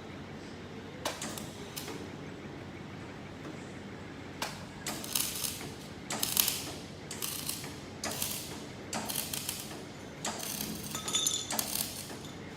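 MIG/flux-cored welding gun striking a series of short tack welds on a steel T joint, each a brief crackling burst under a second long, about ten in all and coming thick and fast after the first few seconds.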